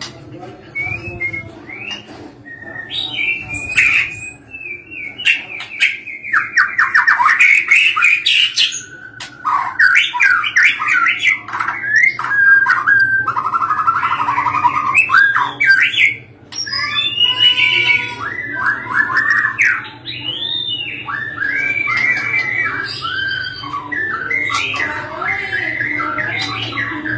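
White-rumped shama (murai batu) singing at length: a long, varied song of clear whistles, fast trills and chattering notes that change phrase every second or two, with a low steady hum underneath.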